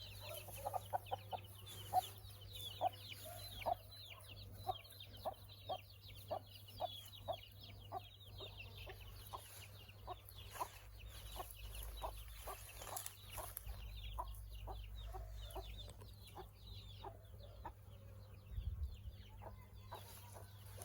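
Birds calling: short, low cluck-like notes about twice a second over a constant chatter of quick, high chirps.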